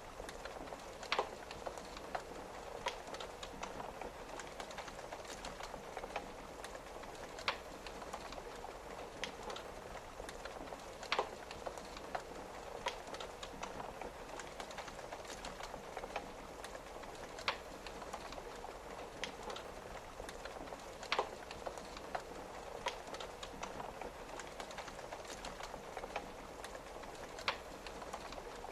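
Wood fire crackling, with sharp pops every second or few, over a steady hiss of rain pattering on a window.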